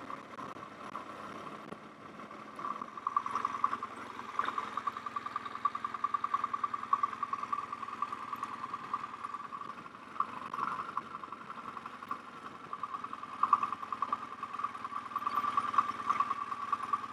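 An engine idling, a steady sound with a fast, even pulse.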